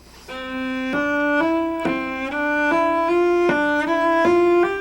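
Solo cello playing a left-hand finger exercise: a short group of notes in one position, the first finger kept on the string while the upper fingers move, the pattern repeating a scale step higher each time. The notes change about every half second, starting just after the beginning.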